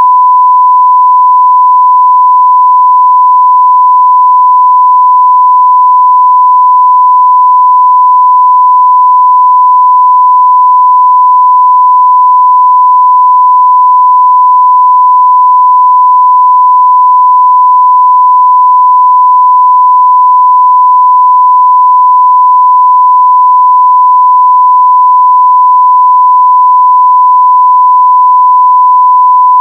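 1 kHz sine-wave audio test tone at 0 dB full scale: a single pure, steady, unbroken beep, with no change in pitch or loudness.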